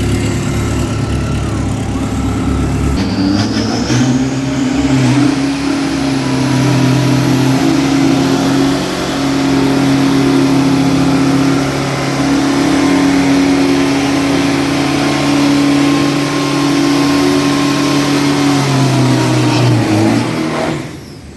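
Diesel drag-racing pickup engine revving, climbing in pitch over the first few seconds and then held at a steady high pitch for about fifteen seconds before dropping away near the end.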